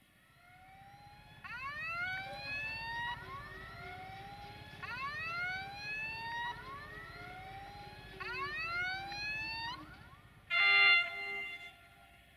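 Passing train sounds: three rounds of rising whining tones about three and a half seconds apart, over a steady tone that slowly falls in pitch. Near the end comes one loud, steady horn blast of about a second, the loudest sound here.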